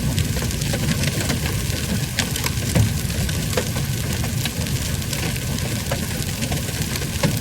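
Heavy rain with hail: a steady hiss of rain broken by many short, sharp ticks of hailstones striking, over a continuous low rumble.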